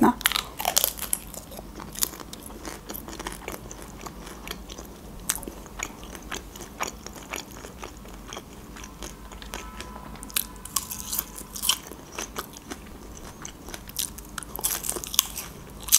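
Close-miked eating: a soft taco chewed with moist mouth clicks and small crunches. Near the end comes a louder, crisp crunching bite into a green onion stalk.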